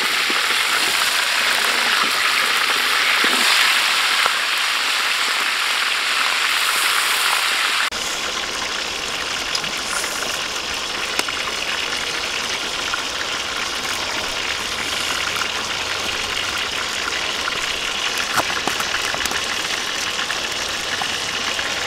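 Hot oil sizzling loudly around a whole goose and a catfish frying in a wok. The sizzling cuts off abruptly about eight seconds in, giving way to a softer, steady hiss with a few small clicks.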